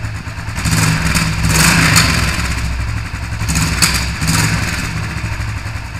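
Suzuki LS 650's single-cylinder engine idling with a steady low drone, revved up twice: once for about a second and a half, starting just after the beginning, and again for about a second in the middle.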